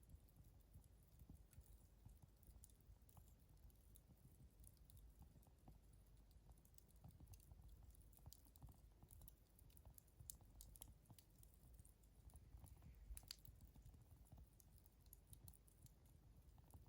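Wood campfire crackling faintly, with sparse small pops and ticks scattered irregularly, a couple slightly sharper ones about two thirds of the way in.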